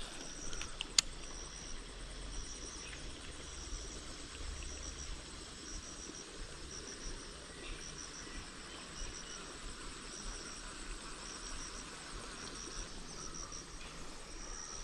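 Insects, cricket-like, chirping in short repeated trains of high pulses over a faint steady hiss, with one sharp click about a second in.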